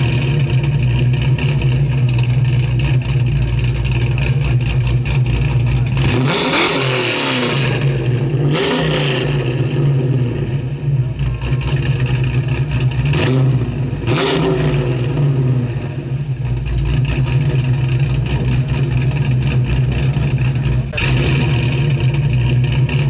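Turbocharged 3.8-litre V6 of a 1987 Buick Grand National idling steadily, blipped up and back down about three times partway through.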